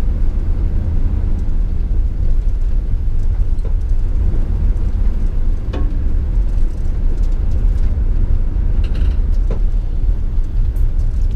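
Steady low engine and road rumble inside a moving camper van's cab, with a couple of faint knocks partway through.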